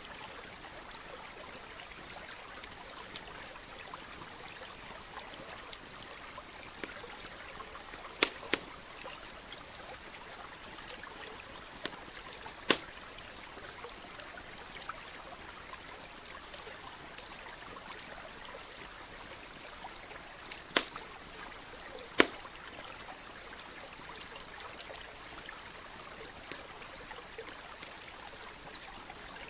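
Campfire crackling with scattered sharp pops, a few of them much louder, over the steady rush of a nearby stream.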